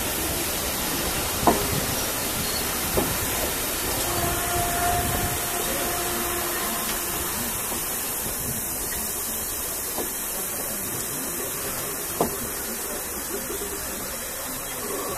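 Passenger coaches of a heritage train rolling slowly past close by, with a steady hiss and a few sharp clunks of the wheels over rail joints.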